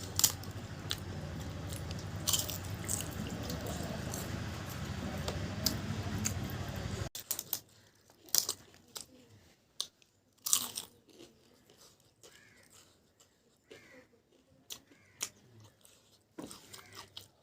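Close-miked eating sounds: chewing with scattered sharp crunches. A steady low hum lies under the first seven seconds and cuts off suddenly.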